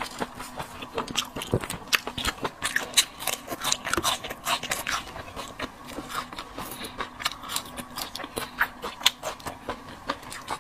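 Close-up eating sounds from chewing seafood: a dense, irregular run of wet clicks, smacks and small crunches.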